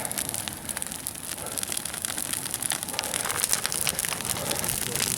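Large campfire crackling, with many sharp pops and snaps as camp rubbish burns in it.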